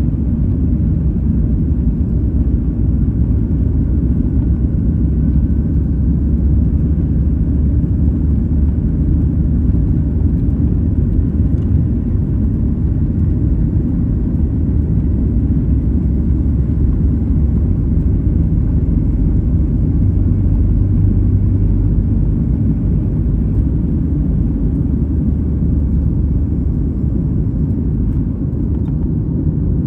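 Steady low rumble of a Boeing 737 MAX 8 heard from inside the passenger cabin, its engines and airflow making an even, loud drone.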